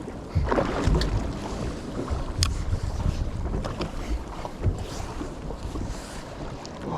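Wind buffeting the microphone over water sloshing around a fishing boat, with a few sharp clicks and knocks.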